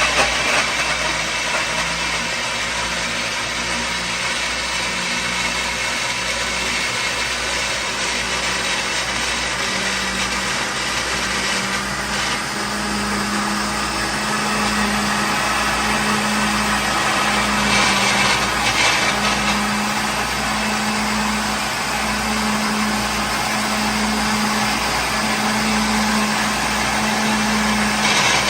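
Electric kitchen blender running steadily, a motor whine over a low hum that wavers slightly in pitch about once a second.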